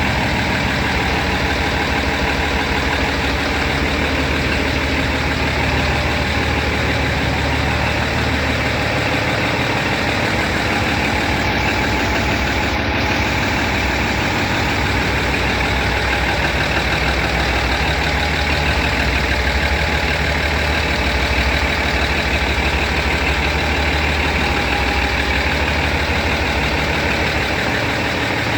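Ship's diesel engine running steadily with a loud, unbroken drone and hum in the engine room.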